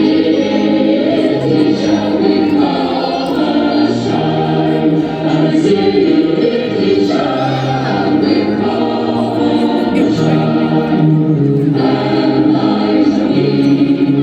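A choir singing slow, sustained chords, the notes held and changing in steps.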